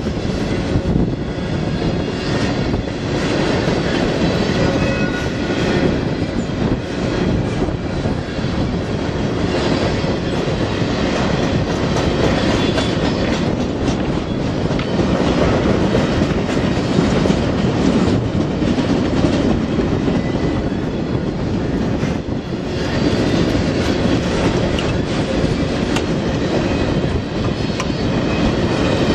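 Freight train cars rolling steadily past, a continuous rumble with the clicking of steel wheels over the rails and faint thin wheel squeal.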